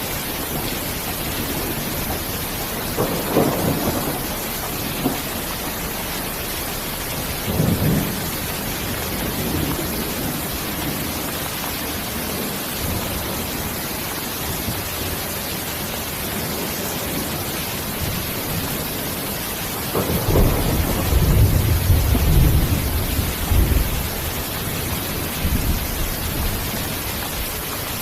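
Steady heavy rain, with rolls of thunder on top: two short rumbles early on, then a longer, louder rumble in the last third.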